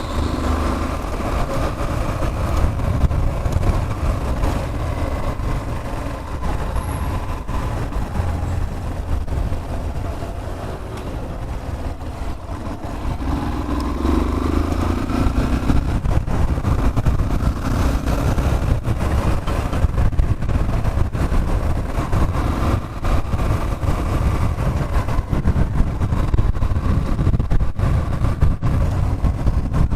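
Yamaha Fazer 150's single-cylinder engine running as the motorcycle is ridden, under steady road and wind noise, a little quieter around ten seconds in.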